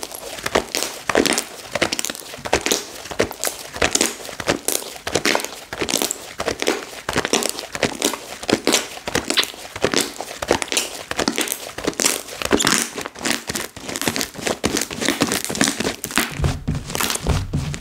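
Slime being squeezed and pressed by hand, giving a dense, irregular run of crackling, popping clicks.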